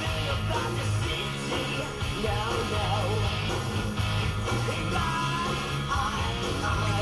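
Rock song with guitar and singing, playing on the car radio.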